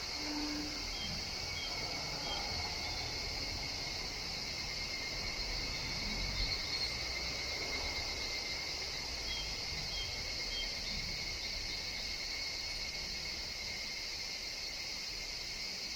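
Steady chorus of higurashi (evening cicadas): a continuous high shrilling with faint short chirps repeating through it, over a low rumble.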